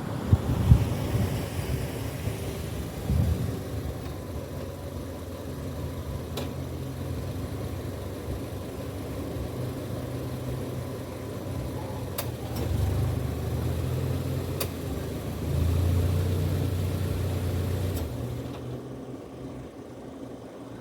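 Motor vehicle engines running with a low, steady hum that grows louder about halfway through and fades near the end, with a few sharp clicks.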